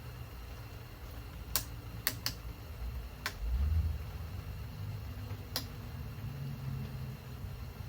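Hand tools and metal engine parts clicking and tapping as a pipe is worked off an engine being torn down: five sharp light clicks spread over several seconds, with a low dull bump of handling between them.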